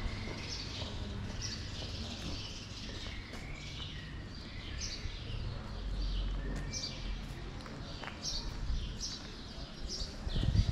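Small birds chirping: short, downward-sliding chirps repeated roughly once or twice a second over a low background rumble.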